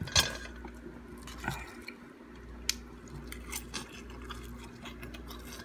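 A person eating, chewing close to the microphone, with a few sharp clicks, the loudest just after the start. A faint steady hum runs underneath.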